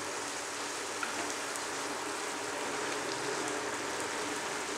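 Goat blood and intestine fry sizzling steadily in a nonstick pan on a low flame as its cooking water boils off, with a wooden spatula stirring through it.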